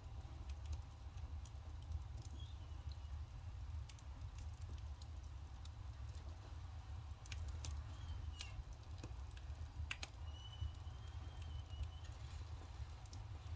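Firewood burning with scattered sharp crackles and pops over a steady low rumble, with a few faint thin wavering whistles.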